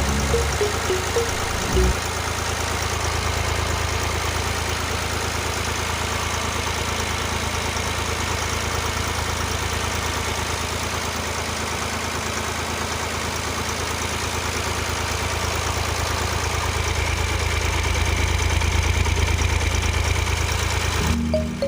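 Small electric motor of a DIY model tractor running steadily, getting slightly louder near the end.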